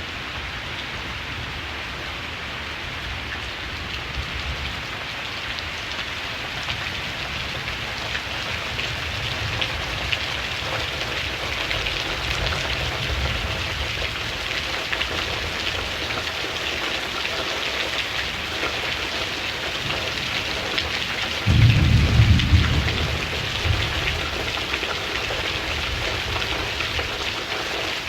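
Steady rain falling, with low thunder rumbling on and off beneath it. A louder roll of thunder comes about three-quarters of the way through, followed by a smaller one.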